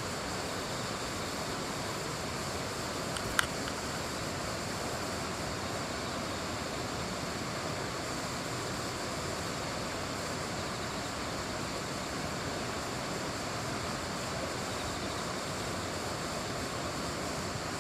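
Steady rushing noise, even throughout, with one sharp click about three and a half seconds in.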